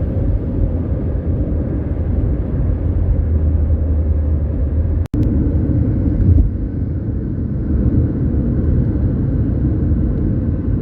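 Old Bangkok sleeper train running: a steady low rumble of the moving carriage, which drops out for an instant about halfway.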